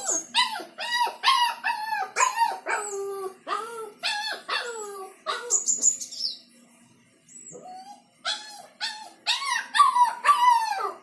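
Dog whining and crying in a quick run of short, rising-and-falling cries, about two a second. The cries pause for a couple of seconds a little past halfway, then start again. It is the distressed crying of a dog left alone, which the owner takes for worry.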